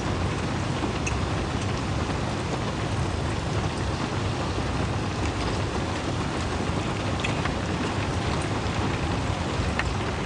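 Heavy rain falling steadily, an even hiss with occasional sharper taps of single drops.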